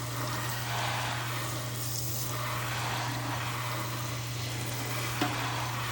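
Kitchen tap water running into a sink, a steady rushing whose tone shifts as the stream is moved or broken, over a steady low hum; one short click about five seconds in.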